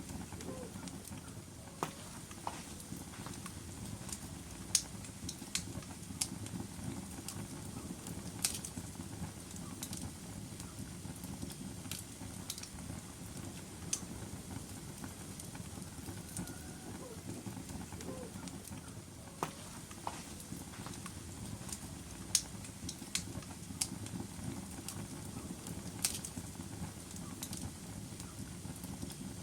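Logs burning in a fireplace: a steady low rush of flame with sharp, irregular crackles and pops every one to three seconds.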